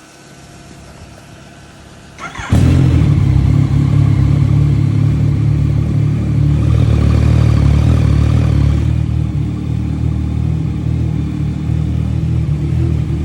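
Yamaha XSR900's inline-three engine being started: a brief burst from the starter about two seconds in, then the engine catches and runs steadily at idle.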